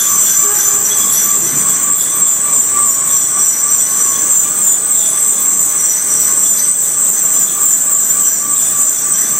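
Steady, high-pitched metallic squealing from a slow-moving rail train loaded with racks of steel rail.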